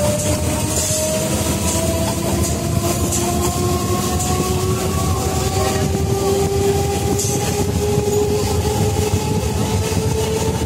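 Train running at speed, heard from inside the carriage: a steady rumble of wheels on the rails, with a whine that slowly rises in pitch.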